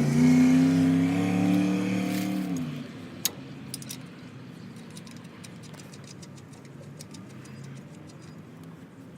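A motor vehicle's engine running, a steady pitched hum that dips slightly and stops about three seconds in. After it come scattered light metallic clicks as lug nuts are set onto the wheel adapter's studs.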